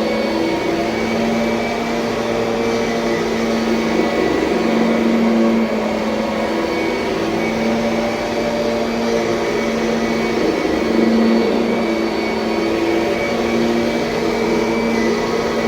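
2007 Kirby Sentria upright vacuum cleaner running continuously: a steady motor drone with a hum that swells and dips slightly.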